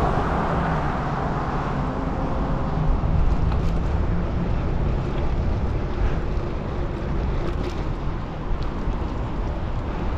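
Steady wind and road noise of a bicycle being ridden on a wet road, with a low hum in the first few seconds that fades out.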